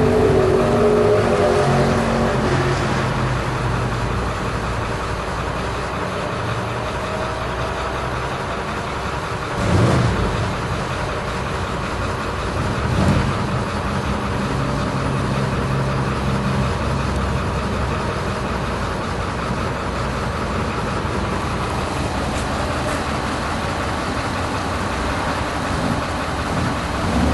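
A car engine running steadily with a low hum. A higher tone dies away in the first few seconds, and there are two short thumps, about ten and thirteen seconds in.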